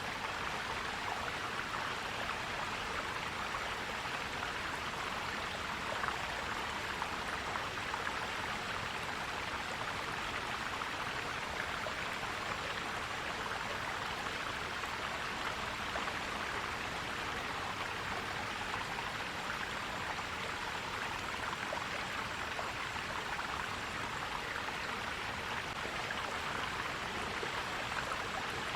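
Forest stream flowing and gurgling, a steady rush of water.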